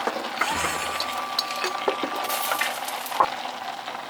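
Pot and utensil clinks and clatter while ingredients go into a pot for a tomato curry, with a short hiss a little past two seconds and a sharper knock about three seconds in.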